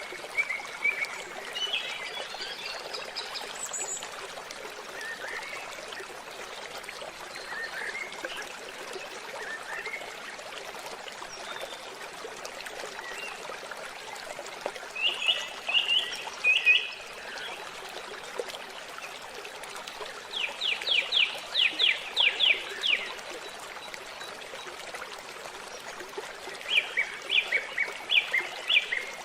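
Steady rush of a waterfall, with bird calls over it. The loudest calls are quick runs of sharp chirps: one fast series of about eight notes midway, and shorter runs just before it and near the end.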